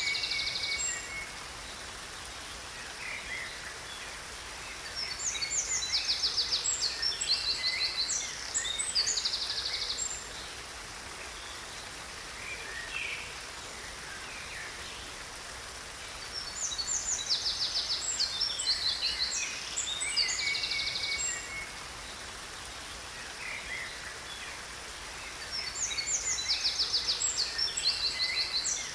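Songbird singing bursts of rapid high trills and chirps, the same phrase coming back three times about ten seconds apart, over a steady hiss of falling water from a waterfall.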